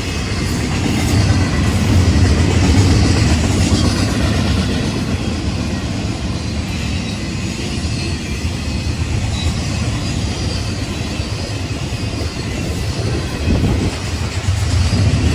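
Freight train passing at speed: a steady rumble of cars rolling on the rails, with some wheel-on-rail clatter.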